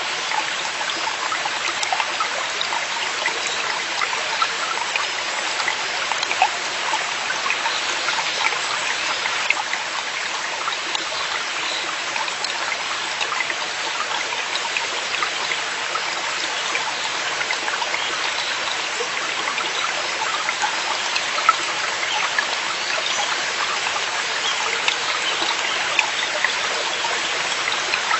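Mountain stream flowing over rocks: a steady rush of water dotted with small splashes and trickles.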